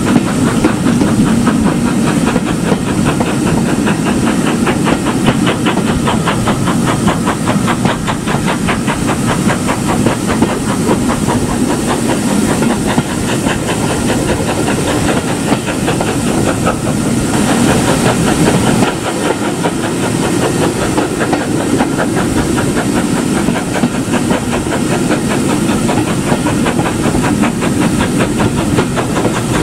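Steam locomotive working, with a steady hiss of steam over a fast, even rhythm of beats.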